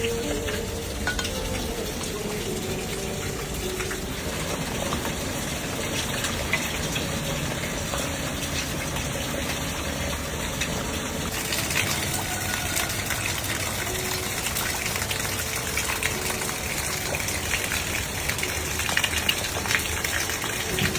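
Heavy rain pouring down: a steady rush and splash of water, growing brighter and hissier about halfway through.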